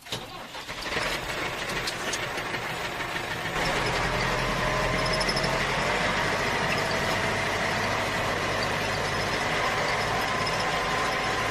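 A vehicle engine running steadily, with a faint wavering whine over it. It starts out of silence, builds over the first second, and steps up louder about three and a half seconds in.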